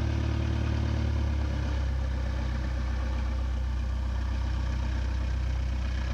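Light airplane's piston engine idling, its pitch dropping slightly about a second and a half in as the throttle comes back.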